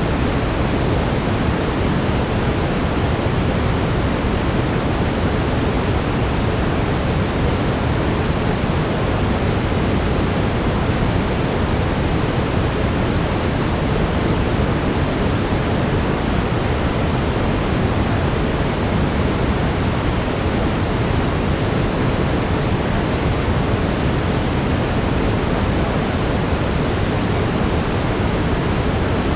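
Steady brown noise: an even, deep rushing hiss, strongest in the bass and unchanging throughout.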